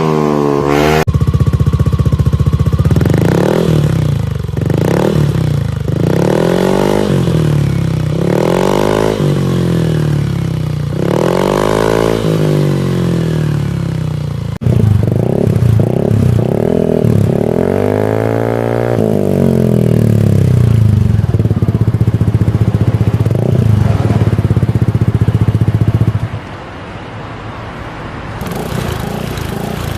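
Yamaha Aerox 155 scooter's single-cylinder four-stroke engine through an aftermarket exhaust, revved in repeated throttle blips, the pitch rising and falling every second or two. The sound cuts abruptly between recordings, with a steadier held run later on that drops suddenly to a quieter, lower engine sound near the end.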